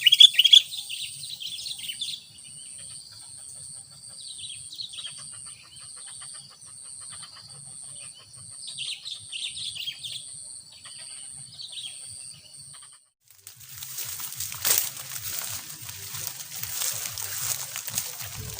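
Sooty-headed bulbuls chirping: a loud burst of calls at the start, then scattered short phrases, over a steady pulsing high-pitched tone. About 13 s in, the calls and tone give way to an even hiss of light drizzling rain.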